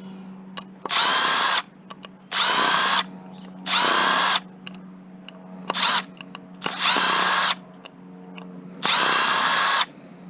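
Small cordless power driver with a star (Torx) bit backing out tiny screws, run in six short bursts, its motor whine rising as it spins up each time, with small clicks of parts being handled between bursts.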